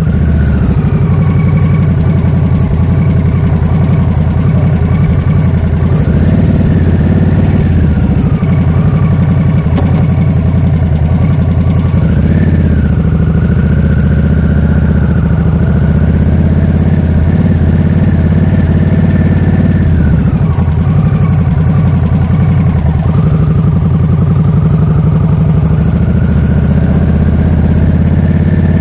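Harley-Davidson Nightster RH975's V-twin engine running loudly while the motorcycle is ridden, its pitch rising and falling several times with throttle and gear changes.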